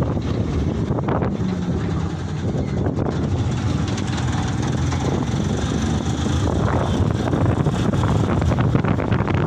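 Canter light truck on the move: a steady engine drone with road noise.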